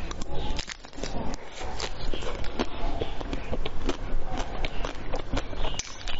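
Close-miked crunching and chewing of a hard-shelled frozen dessert: a quick, irregular run of crisp crackles as the bitten shell breaks up in the mouth.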